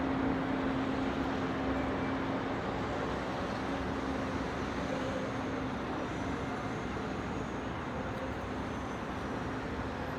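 Steady city traffic noise, a continuous wash of distant road traffic, with a steady low engine-like drone that fades after about halfway.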